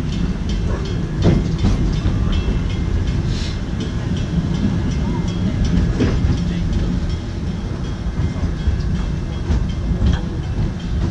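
Wildlife Express theme-park train running along its track: a steady low rumble, with a sharp wheel clack now and then over the rail joints.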